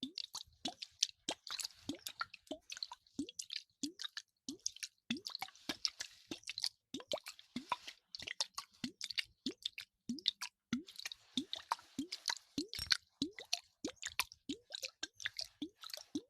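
Close-miked wet ASMR sounds: a steady run of quick plops, each a short rising blip, about two a second, over a wet crackling hiss.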